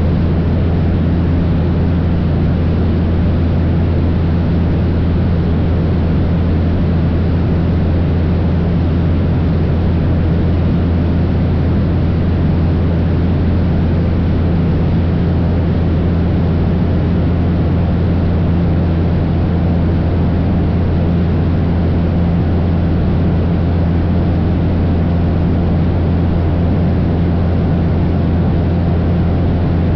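Cessna 172 light aircraft's piston engine and propeller droning steadily in level flight, a constant low hum over a broad rushing hiss.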